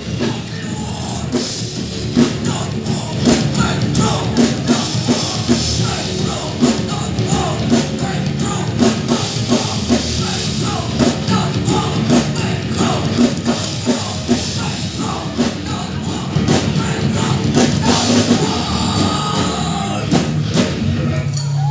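A rock band playing heavy, loud music live, with a drum kit hitting in a steady rhythm and a voice singing over it.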